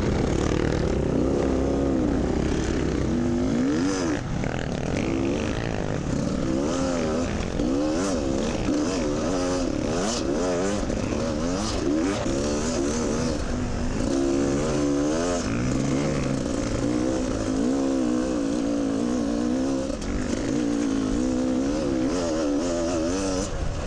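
Beta dirt bike engine revving up and down over and over as the throttle is worked through soft sand, its pitch rising and falling every second or two.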